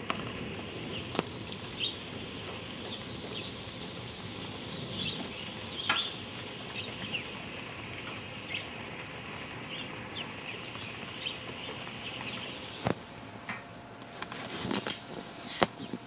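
Small birds chirping: many short, high chirps over a steady background hiss, thinning out after about thirteen seconds. A few sharp clicks or knocks cut through, the loudest about six seconds in and near the end.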